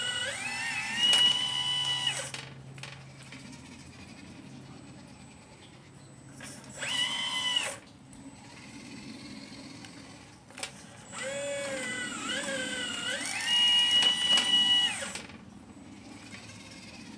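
Motor whine from a 1/12 scale RC Liebherr 954 excavator model, coming in three bursts as it is worked. Within each burst the pitch dips and then rises to a steady high whine.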